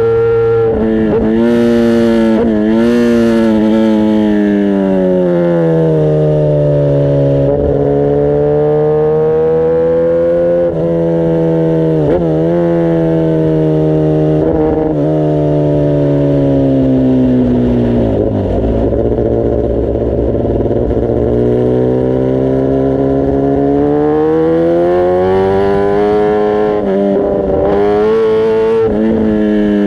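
Kawasaki ZX-10R inline-four engine and exhaust running loud while riding, with a series of quick shifts in the first few seconds. The note then holds fairly steady, sinks to its lowest about two-thirds in, and climbs steadily again as the bike accelerates.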